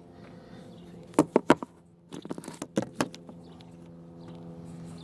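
A few sharp clinks and knocks of hand tools and metal parts being handled, a pair about a second in and a quick cluster around two to three seconds in, over a steady low hum.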